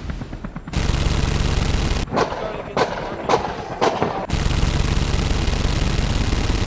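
Machine-gun fire sound effects: a long rapid burst about a second in, then several separate sharp shots or impacts, then another long rapid burst.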